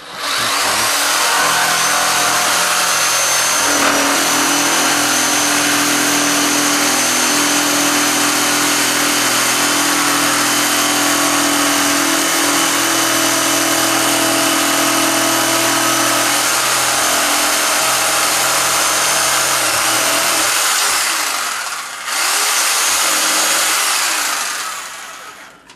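Electric saber saw running and cutting wood: a loud, steady motor-and-blade noise. It stops briefly about 22 seconds in, starts again, and winds down near the end.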